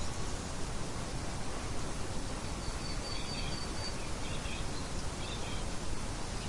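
Steady rain with birds calling faintly over it: a thin high whistle held for about a second, starting about two and a half seconds in, then short chirps three times.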